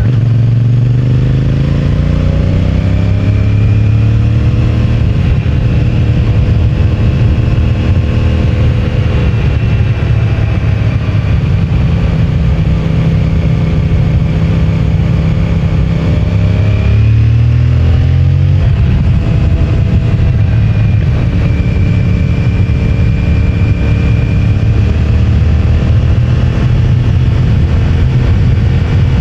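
CFMOTO 450MT parallel-twin engine running through its stock exhaust, the revs climbing over the first few seconds as the bike pulls away, then holding steady. A little past halfway the revs drop briefly and climb again, as at a gear change.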